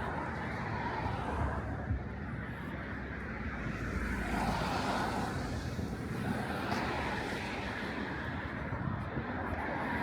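Outdoor street ambience: a steady low rumble of distant vehicle traffic.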